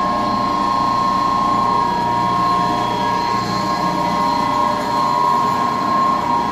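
Boiler-room machinery running: large gas-fired commercial boilers and their circulation pumps giving a loud, steady hum with a constant high whine.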